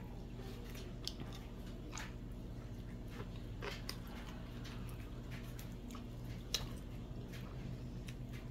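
A person chewing fried fish and sticky rice, with small wet mouth clicks and smacks scattered throughout, over a steady low hum.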